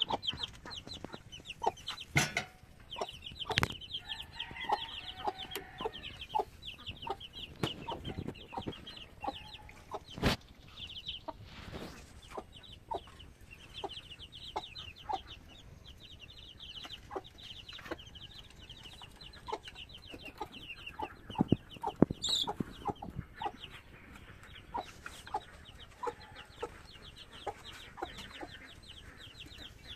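A group of young chicks peeping in rapid, high, repeated chirps, with scattered sharp taps and knocks, a few of them louder than the peeping.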